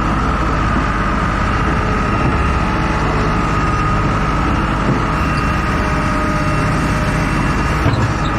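A heavy vehicle engine running steadily at a constant speed, with a faint steady whine above the rumble and a small click near the end.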